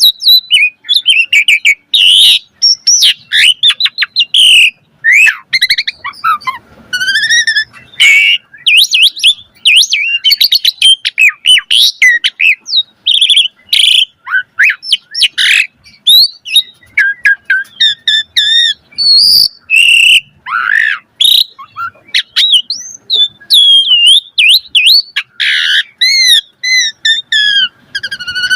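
Asian pied starling (jalak suren) singing a continuous, varied song of loud whistles, rising and falling glides and rapid chattering phrases, with short pauses between them.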